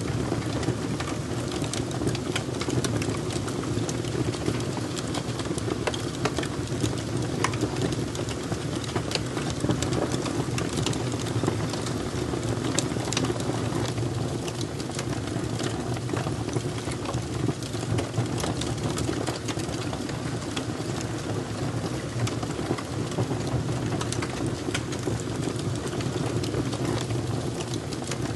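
Fire crackling: a steady low rumble of flames under many small, sharp crackles and pops scattered irregularly through it.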